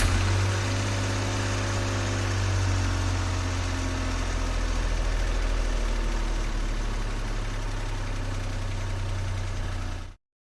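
A motor-vehicle engine idling steadily with a deep low hum, cutting off abruptly about ten seconds in.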